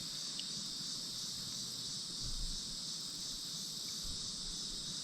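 A chorus of insects making a steady, shrill high drone, with a faint regular pulsing in it.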